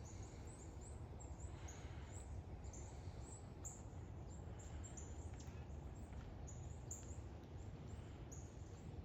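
Small birds chirping over and over, short high chirps several times a second, over a steady low outdoor rumble.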